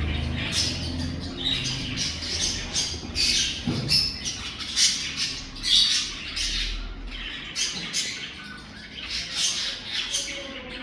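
Captive birds in an aviary calling over and over: harsh, scratchy calls, about one to two a second, with a single knock about four seconds in.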